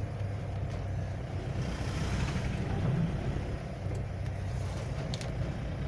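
Cyclone wind blowing hard, a steady rushing with a deep low rumble.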